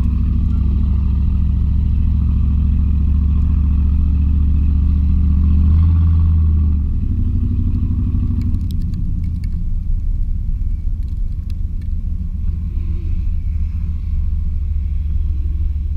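The 350 small-block V8 of a 1986 Chevy K20 pickup running under load at low speed, its exhaust drone steady and building a little, then dropping off about six to seven seconds in as the throttle eases.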